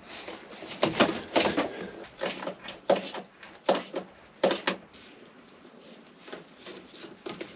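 A rubber cooling-water hose being handled and worked onto its fitting: irregular knocks, clicks and rubbing, busiest in the first five seconds and sparser after.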